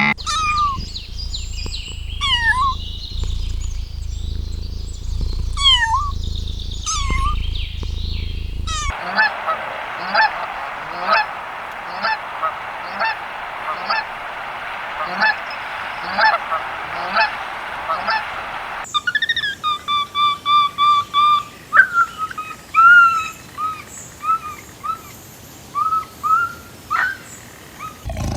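Birds calling in three spliced clips: scattered calls over a low hum, then many overlapping calls over a steady hiss about nine seconds in, then a quick run of short repeated calls from about nineteen seconds.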